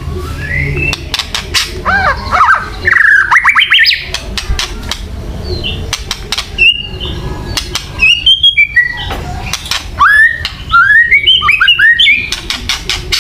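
Songbird kretekan: a harsh run of rapid clicking ticks mixed with bursts of short, quick-rising whistled notes, an aggressive call played to provoke a white-rumped shama (murai batu) into fighting form.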